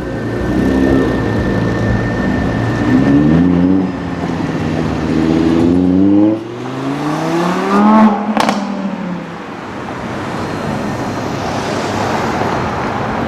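A sports car engine accelerating hard, its pitch climbing through several gear changes, with a sharp crack about eight seconds in. The car then passes, leaving steady traffic and road noise.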